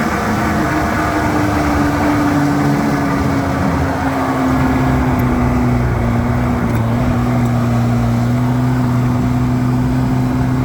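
An engine running steadily with a low hum that sinks slightly in pitch over the first few seconds, then holds.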